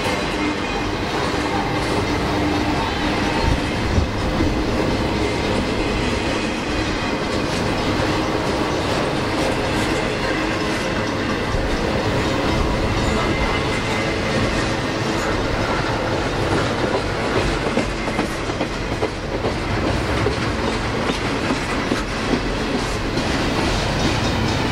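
Empty intermodal freight cars rolling past on jointed track, their wheels making a steady rumbling clickety-clack.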